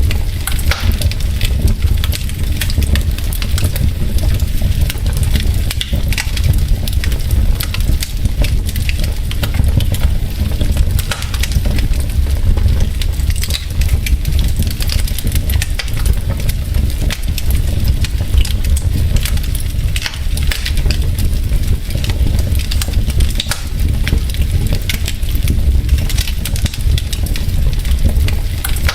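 Wood logs burning in a fireplace, crackling with many quick sharp pops and snaps over a steady low rumble of the fire.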